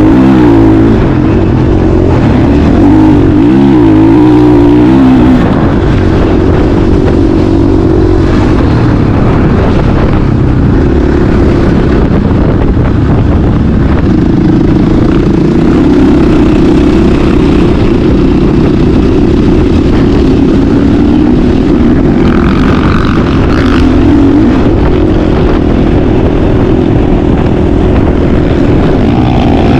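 Motocross dirt bike engine running loud under way, its pitch rising and falling as the throttle is worked through the ride.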